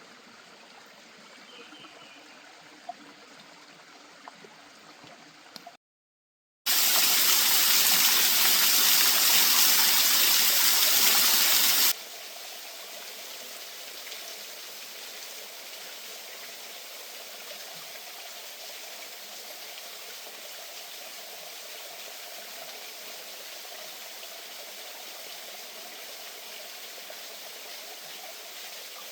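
Running water of a stream: a steady rush, much louder and fuller from about six to twelve seconds in, after a brief cut to silence, then steadier and softer.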